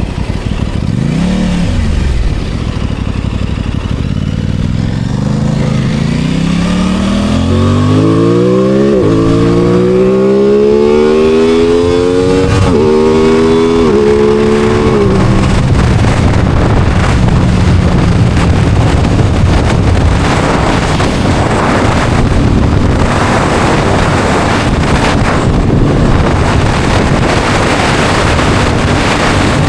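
Aprilia Tuono 660 Factory's parallel-twin engine: a quick rise and fall in revs near the start, then hard acceleration through the gears. The engine note climbs and drops sharply at three upshifts, then settles into a steady cruise as wind noise builds.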